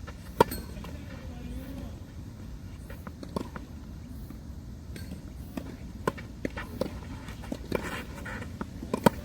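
Tennis ball hits from racket strings and court bounces: one sharp, loud strike about half a second in, then scattered pops, several close together near the end.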